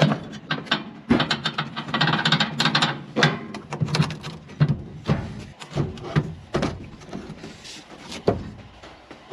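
Hand tools and metal parts being worked on an old truck, with a quick run of sharp clicks, knocks and scrapes, thickest in the first few seconds, as the original battery is worked loose.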